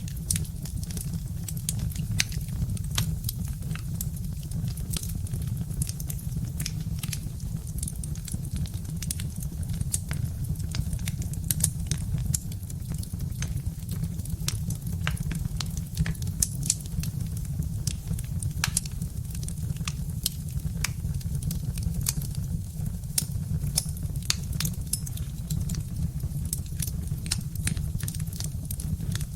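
Birch-log fire crackling in a fireplace: irregular sharp pops and snaps over a steady low rumble.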